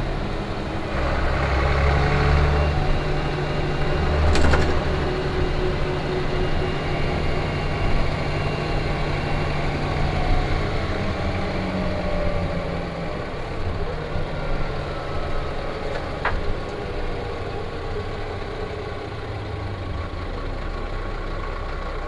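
Van Hool A320 city bus heard from inside the passenger cabin: its engine drones steadily as the bus runs, and the note changes about halfway through. A couple of short sharp knocks, about four seconds in and again near the three-quarter mark, are most likely rattles in the cabin.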